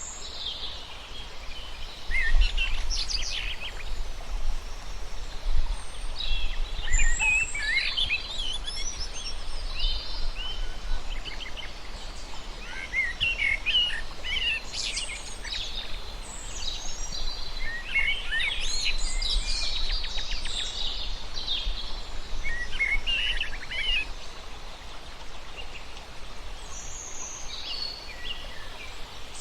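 Several birds chirping and calling, with many short, high calls overlapping one another over a steady low background noise.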